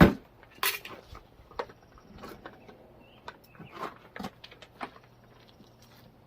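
Hard objects knocking and clattering as they are handled: a sharp knock at the start is the loudest, followed by a run of smaller knocks and rattles that die away about a second before the end.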